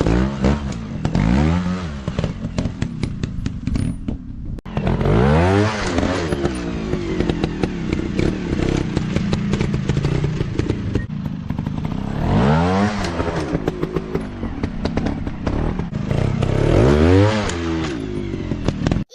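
Dirt bike engine revving hard, its pitch sweeping up and falling back again and again as the throttle is worked, with a scatter of sharp ticks and clatter throughout. There is a brief cutout a little under five seconds in.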